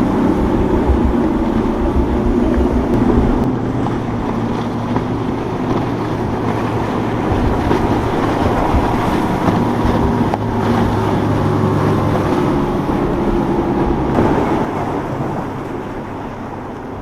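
Motorboat engines running steadily as boats pass through the inlet, with wind on the microphone. The engine drone eases off near the end.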